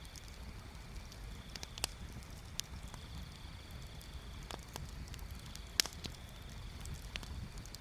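Wood bonfire crackling, with scattered sharp pops about once a second. The loudest pop comes about six seconds in.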